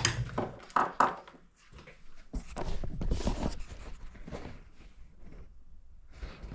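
Small engine parts being handled on a workbench: a few sharp clicks and knocks in the first second, then a stretch of rustling and handling noise that fades away.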